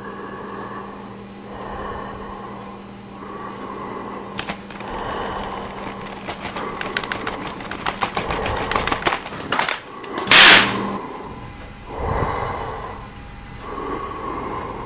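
A run of sharp clicks and knocks, growing quicker and denser, then a sudden loud harsh burst about ten seconds in, over a steady low hum.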